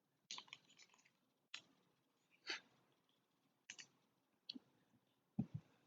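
Faint, scattered clicks and taps of trading cards being handled and flipped through, about nine light ticks, with two close together near the end.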